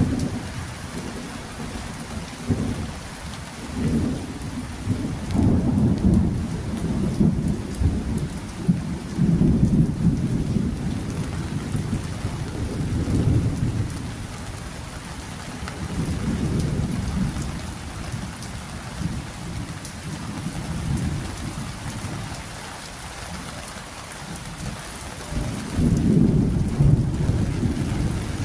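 Steady rain falling, with low rumbles that swell and fade several times, the strongest a few seconds in and near the end.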